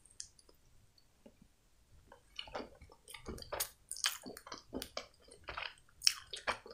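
A person chewing a soft chocolate candy close to the microphone. After a couple of quiet seconds with only a few single clicks, it becomes a dense, irregular run of wet mouth clicks and smacks.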